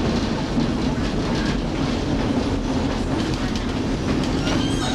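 Passenger train cars rolling along the track, a steady rumble with wheel clatter on the rails.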